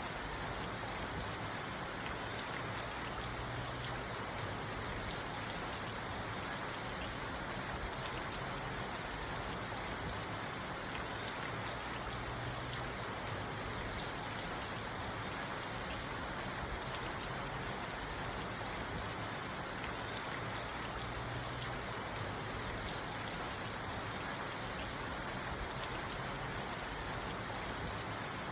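Steady rain on a parked car heard from inside the cabin: an even hiss of rain with faint scattered drop taps on the roof and glass.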